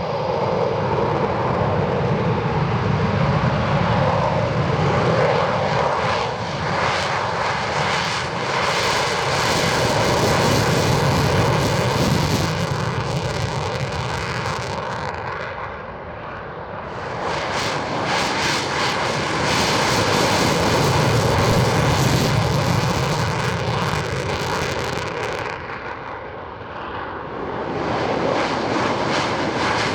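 Eurofighter Typhoon jet engines running loud, the roar swelling and easing as the jets pass one after another, with a lull about halfway through and another near the end.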